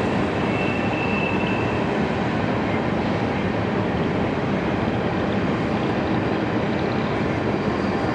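Freight train cars rolling past, a steady rumble of wheels on rail. A brief thin high squeal comes in about half a second in and lasts about a second.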